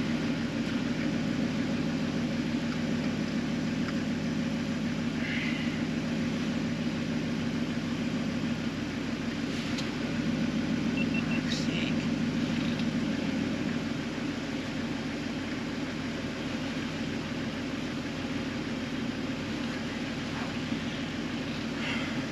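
International Harvester 756 gasoline tractor engine being cranked over steadily without catching, easing off slightly about 13 seconds in. A test spark plug on the lead shows it has spark, so the failure to start is taken for a lack of fuel.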